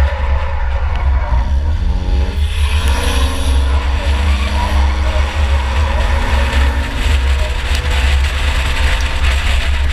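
A 2004 Chevy Impala's V6 engine running hard in a race, heard from inside the car: it revs up in rising pitch about two seconds in, then holds a steady note over a heavy low rumble.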